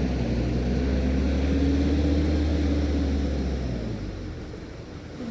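A four-wheel-drive vehicle's engine running with a steady low drone, fading away about four seconds in.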